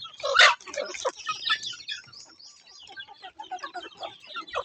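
Birds clucking and calling in quick short notes, with one loud harsh squawk about half a second in.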